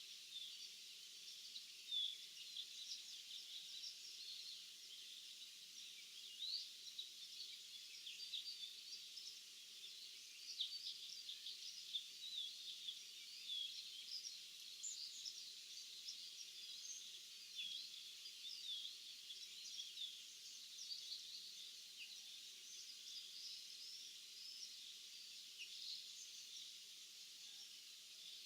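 Many small birds singing and chirping in an open field at dawn, a dense chorus of short high chirps and trills over a faint steady haze.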